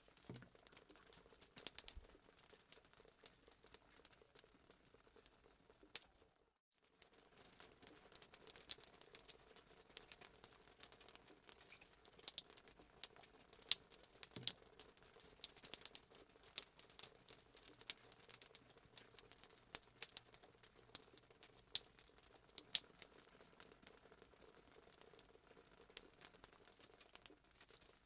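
Fireplace sound effect: a wood fire crackling, with irregular sharp snaps over a faint steady hiss. It cuts out completely for a moment about six and a half seconds in.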